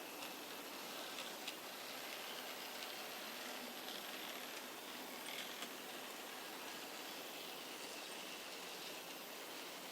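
Model diesel railcar running on a test track: a faint steady whir from its motor under a hiss, with a few light clicks from the wheels over the track.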